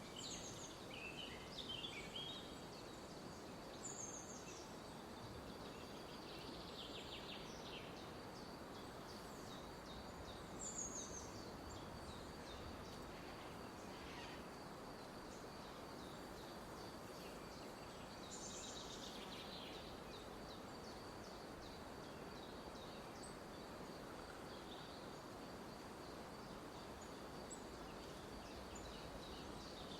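Forest ambience: scattered short bird calls over a steady, faint hiss of background noise.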